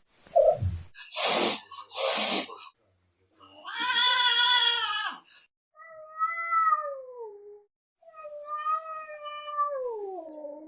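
Cats meowing: two short raspy calls, then three long drawn-out meows. The last two slide down in pitch.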